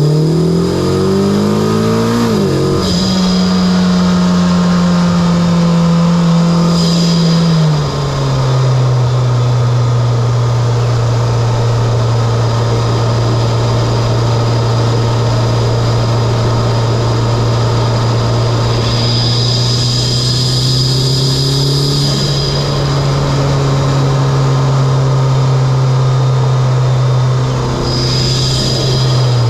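Mitsubishi Lancer Evolution X's turbocharged 2.0-litre four-cylinder, fitted with an aftermarket Injen intake and HKS exhaust, pulling in gear: it revs up over the first couple of seconds, then drops in pitch and holds steady. The pitch falls again about eight seconds in, and the engine then cruises at a steady pitch with a small rise in the twenties. A faint high whistle comes and goes a few times.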